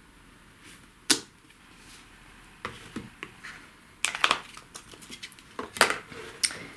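A small bird stamp repeatedly tapped down onto card, making sharp light taps and knocks, with a quick cluster about four seconds in.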